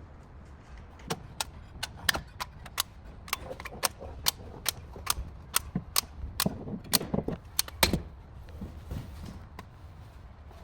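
A run of sharp clicks and taps, about twenty of them, irregularly spaced over some seven seconds, then stopping.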